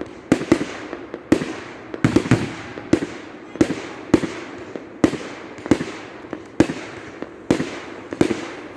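Display firework shells bursting in steady succession, about a dozen sharp bangs, roughly one a second, each followed by a short echoing rumble.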